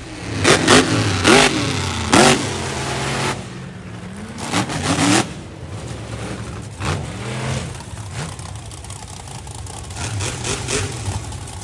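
Monster truck engine revving in a series of sharp blips, the pitch jumping up and falling back several times, loudest in the first few seconds.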